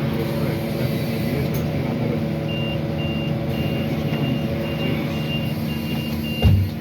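Scania CN280UB CNG city bus running steadily, heard from inside the bus. From about two and a half seconds in, a high electronic warning beeper sounds about twice a second, and there is a single low thump near the end.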